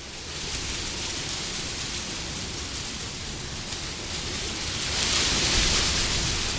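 Wind blowing steadily, swelling into a stronger gust about five seconds in.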